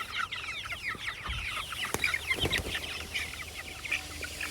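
Flock of young chickens peeping, many short high calls overlapping, with a couple of faint knocks about two seconds in.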